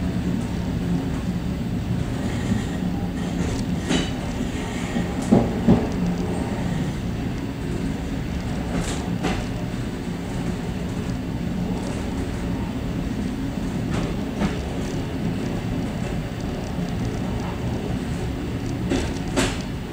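A suburban passenger train running, heard from inside its vestibule: a steady low rumble of the wheels and car body. Scattered sharp clicks from the wheels passing over rail joints cluster about four to six seconds in and again near the end.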